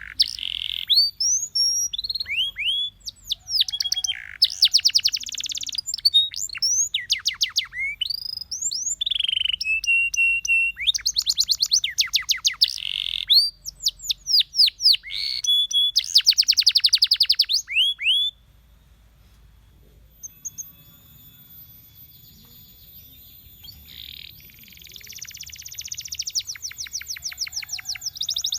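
Canary singing: long rolling trills of fast repeated sweeping notes alternating with rising and falling whistled phrases. The song drops to faint scattered notes about 18 seconds in and picks up again with a loud trill near the end.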